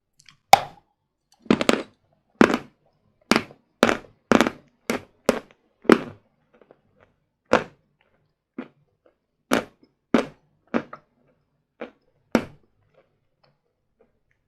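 Hard sawn Vatutin chalk being bitten and chewed close to the microphone: a run of sharp, dry crunches about once a second, the first the loudest and the later ones quieter.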